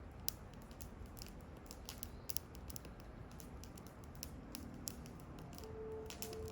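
Campfire crackling: irregular sharp pops and snaps from burning wood over a low steady hiss.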